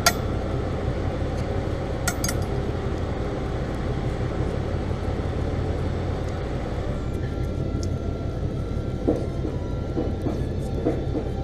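Steady low rumble of a running Ford Fiesta heard from inside, with a few short knocks near the end: the knocking behind the dashboard from a failing heater blend-door servo motor.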